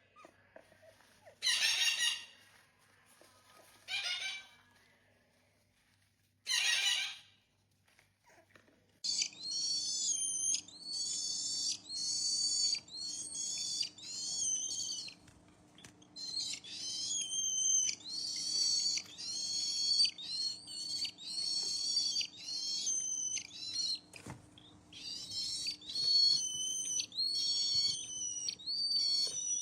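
Parrot calling: a few separate harsh squawks, then from about nine seconds in a long run of repeated whistled calls, roughly one a second.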